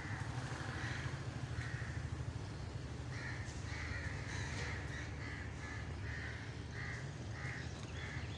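A bird calling over and over in short harsh calls, a few at first and then about two a second from about three seconds in, over a steady low background rumble.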